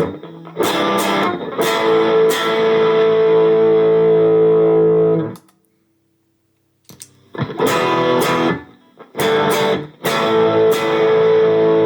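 Gretsch Pro Jet electric guitar played through a BluesBreaker-style overdrive pedal with a mildly dirty tone. A few strummed chords lead into a long ringing chord, then comes a short silence and the same phrase played again.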